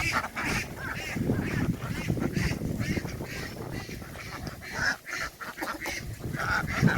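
A crowded flock of domestic ducks quacking, many calls overlapping, with shuffling and jostling underneath.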